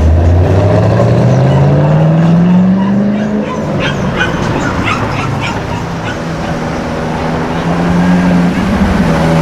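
A performance car's engine accelerating, its pitch rising steadily for about three seconds. Then comes a quick run of short, sharp high-pitched sounds, and the engine settles to a steadier drone near the end.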